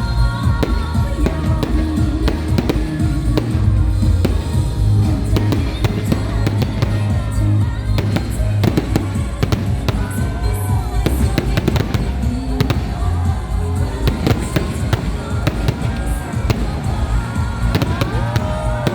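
Fireworks going off in many quick cracks and pops, with music playing underneath.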